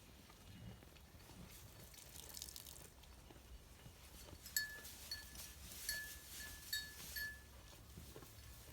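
A small bell on a sheep ringing in six quick, light clinks on one clear pitch in the second half, after some faint rustling.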